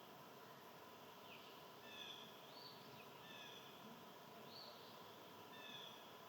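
Faint wild bird calling over and over, short high calls roughly once a second, over steady outdoor background hiss.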